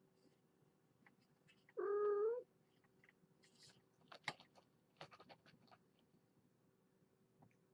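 A cat meows once, about two seconds in, with the pitch rising at the end. Several light clicks and rustles follow.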